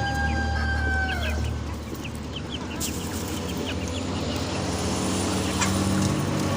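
A rooster's crow ends on a long held note that dies away about a second in. Scattered short clucks and chirps of chickens follow, over a steady low hum.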